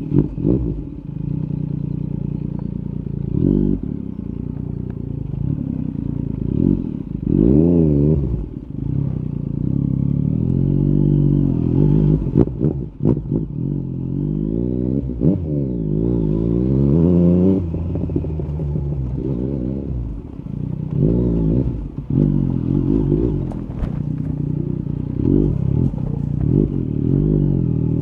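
Yamaha MT-09 SP's three-cylinder engine through an Akrapovic carbon exhaust, revving up and falling back again and again as the bike accelerates and rolls off. Several sharp cracks sound over it along the way.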